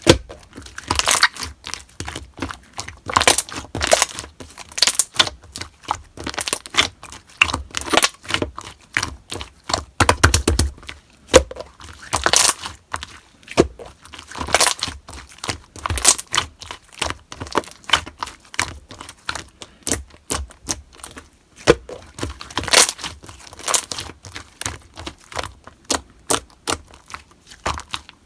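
Slime being kneaded and pressed by hand, giving a dense run of short popping and crackling clicks.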